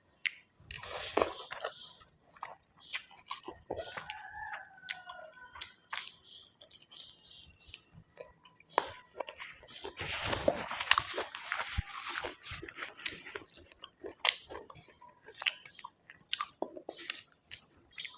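Close-up chewing and crunching of food, with wet mouth clicks and smacks and a louder run of crunching about ten seconds in.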